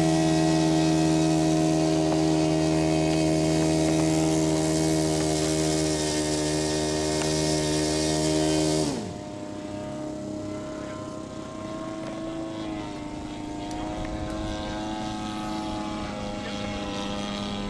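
Radio-control model airplane engine running steadily at high throttle, then throttled back sharply about nine seconds in to a lower, quieter note that wavers a little in pitch.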